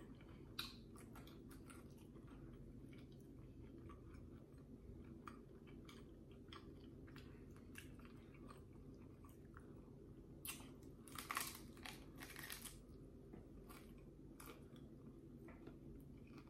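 A person biting and chewing a crunchy hard-shell taco: small crunches and mouth clicks throughout, with a louder run of crunching for about two seconds a little past halfway.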